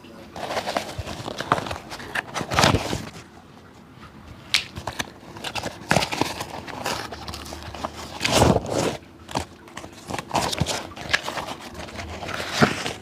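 Hand work on an old leather shoe: irregular scraping and rubbing strokes mixed with sharp clicks and taps, the loudest stroke about eight and a half seconds in.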